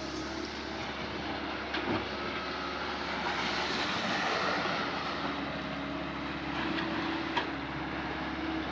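Swamp excavator's diesel engine running steadily, with a rushing noise that swells about halfway through and two short knocks, one about two seconds in and one near the end.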